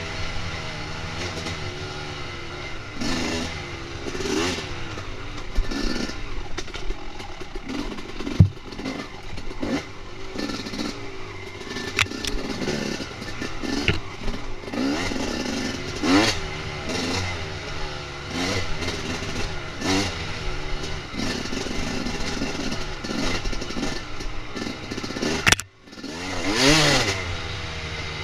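Dirt bike engine revving up and down over and over while riding, with scattered sharp clattering knocks. The sound drops out briefly near the end, then the engine picks up again.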